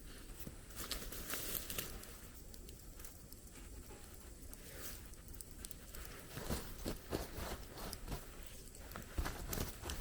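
Irregular light crackles, taps and rustles, with a busier cluster near the end, over a faint steady hiss.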